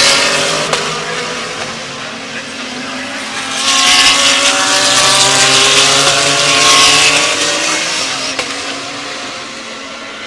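GT3 race cars passing at racing speed with their engines at high revs: one goes by at the start, then louder passes come about four and seven seconds in, and the sound fades away after that.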